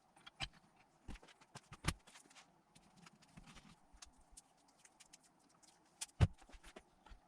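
Tap wrench and spanner clicking and knocking on metal while a 1/8 BSPT tapered thread is cut by hand into a bung held in a vise. The clicks are scattered and irregular, with a louder knock about six seconds in.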